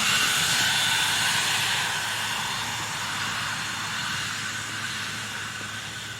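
A steady rushing hiss that slowly fades away.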